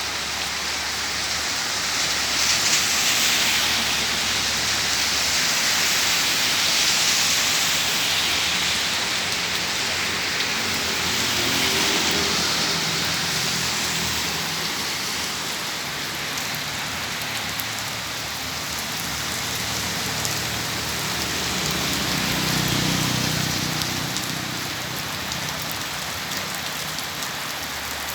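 Heavy rain pouring down steadily, its hiss swelling and easing in slow waves. A low rumble rises and fades twice beneath it, about halfway through and again near the end.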